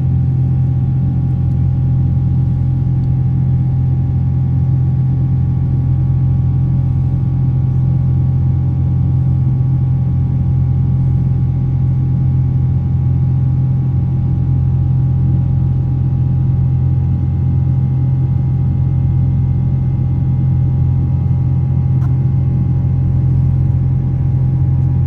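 Boeing 777 jet engines heard inside the passenger cabin: a loud, steady drone with a strong low hum and several fixed higher tones, unchanging throughout.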